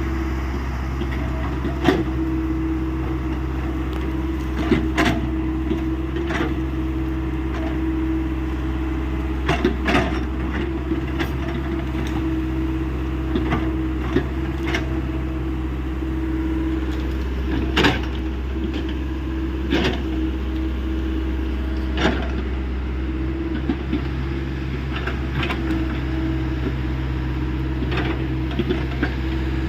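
Hyundai 85 excavator's diesel engine running steadily under work, with sharp knocks and cracks at irregular intervals.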